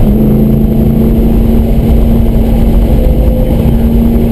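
The 5.7-litre LS6 V8 of a 2003 Corvette Z06 at speed on track, holding a steady drone, heard from inside the cabin under heavy road and wind rumble.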